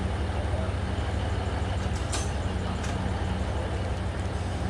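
Steady low rumble of a running vehicle, with a sharp click about two seconds in and a fainter one a little later.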